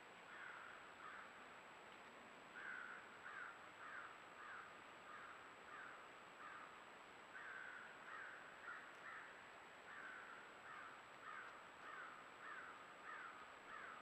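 A bird calling faintly and over and over, in runs of short, slurred notes about two a second with brief pauses between runs.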